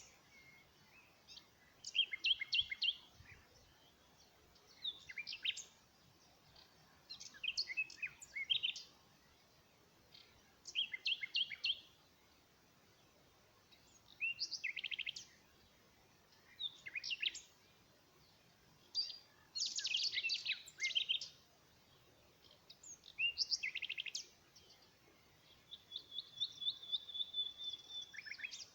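Bird song: short phrases of quick, high chirping notes, about a second each, repeated every two to three seconds, over a faint steady background hiss. Near the end one long held whistle.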